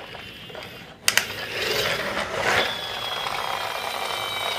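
Toy car's mechanism: a sharp click about a second in, then a whirring that settles, from about two and a half seconds in, into a steady high-pitched whine.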